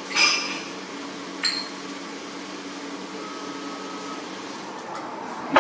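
Steady room hum of a bar, broken by glassware on a table: a ringing clink of glass just after the start, a lighter clink about a second and a half in, and a sharp knock near the end.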